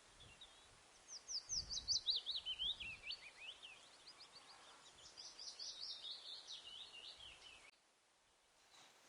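A kingfisher calling: a fast run of sharp notes that falls in pitch, followed by a second, softer run, over a faint steady hiss. The calling cuts off suddenly near the end.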